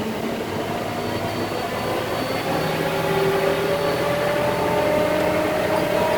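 Diesel engine of a concrete mixer truck working hard up a steep grade, its pitch climbing slowly and getting a little louder from about halfway through.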